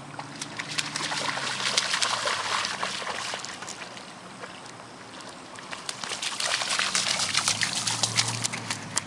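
A small child's feet splashing through a rain puddle in two bouts of quick, dense splashes, the first beginning about a second in and the second about six seconds in.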